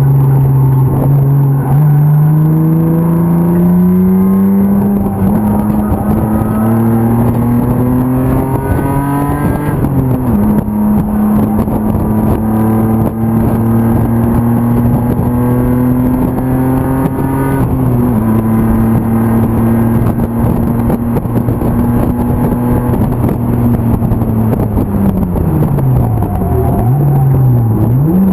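BMW E36 race car's M50 inline-six engine running hard on track. The revs climb for several seconds, then drop sharply at an upshift about ten seconds in. They hold nearly steady with a second small drop, fall away near the end and pick up again at the very end.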